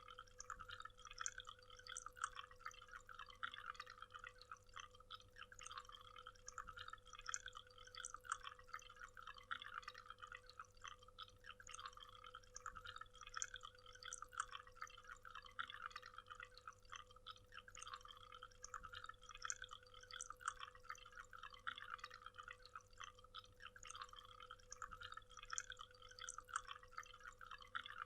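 Small waterfall, water falling and splashing in a dense, steady patter of little splashes and drips.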